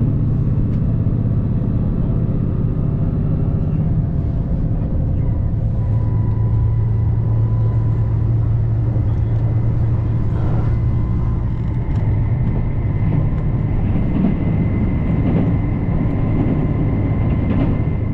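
Cabin running noise of a JR Shikoku 2700 series diesel express train: a steady low engine drone with rumbling rail noise, joined about six seconds in by a thin, steady high whine.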